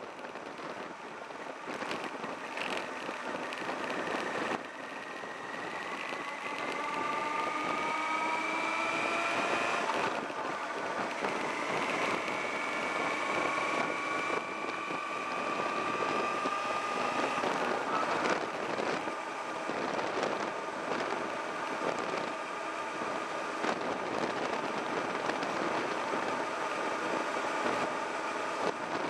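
Sport motorcycle's engine heard from the rider's seat as it accelerates: the engine note rises steadily, breaks at a gear change about ten seconds in, then climbs again, over a steady rush of wind and road noise.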